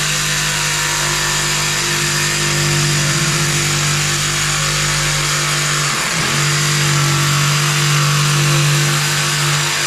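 DeWalt 331B cordless jigsaw running steadily under cutting load; its motor pitch dips briefly about six seconds in, then comes back up.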